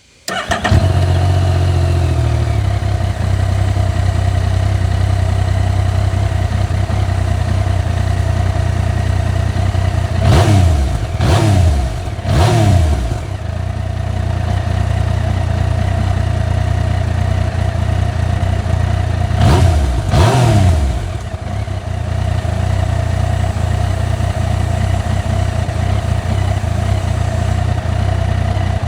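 Yamaha Niken's three-cylinder CP3 engine cold-starting: it catches almost at once and runs at a brief higher idle before settling to a steady idle about two seconds in. The throttle is blipped three times in quick succession around ten seconds in and twice more around twenty seconds in, each rev rising and falling back to idle.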